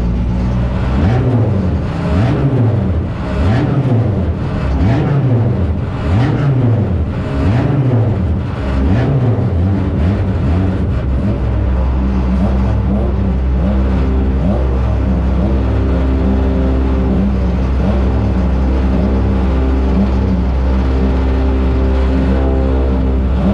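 1-litre stock car engine heard from inside the cockpit, revved up and down about once a second for the first ten seconds or so, then settling to a steady idle.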